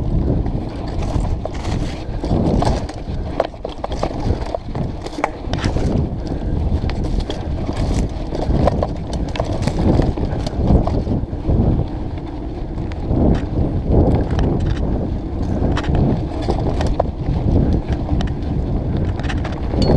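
Mountain bike ridden down a forest singletrack: steady rumble of the tyres on the dirt, with frequent rattling and knocking of the bike over bumps and roots, and wind rumbling on the microphone.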